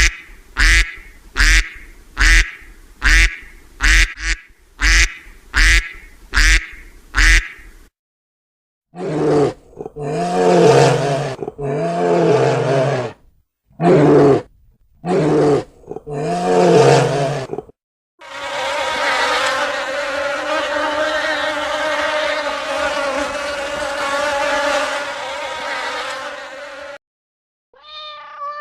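A run of animal sounds from separate clips: about ten short calls in quick, even succession, then five longer calls, then a steady buzz lasting about nine seconds.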